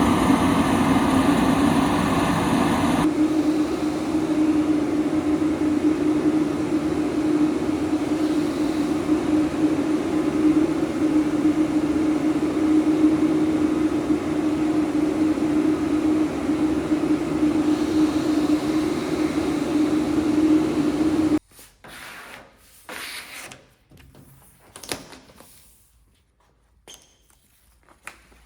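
A motor-driven machine running steadily with a strong low hum, cutting off abruptly about 21 seconds in, followed by a few light knocks.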